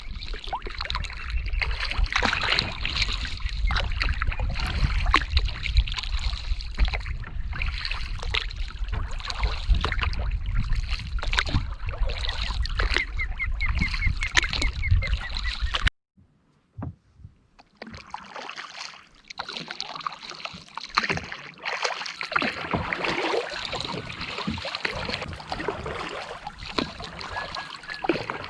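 Kayak on a lake: water splashing and sloshing around the paddle and hull, with many small clicks, and a low wind rumble on the microphone for the first half. The sound drops out for about two seconds around the middle, then the water noise goes on without the rumble.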